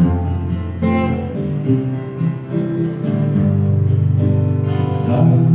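Instrumental interlude of a worship song: acoustic guitar strumming chords over sustained bass notes, with no singing.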